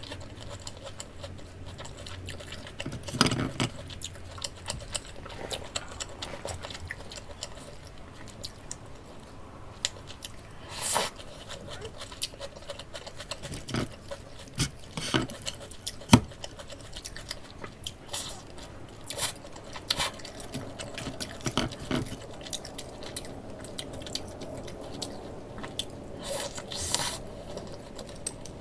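Close-up chewing and biting into crispy breaded pork cutlet (tonkatsu), with irregular crunches and a few sharp clicks, the sharpest about halfway through.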